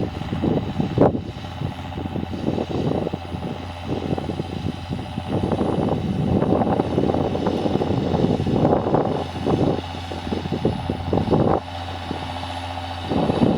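John Deere tractor engine running steadily under load while plowing, with uneven rushing noise rising and falling over the engine hum; the noise drops away for about a second and a half near the end.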